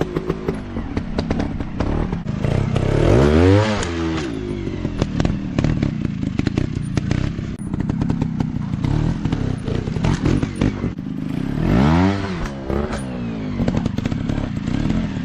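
Small dirt bike engine revving hard and falling back about three seconds in and again near twelve seconds, running at lower revs in between, with a busy clatter of knocks and thuds.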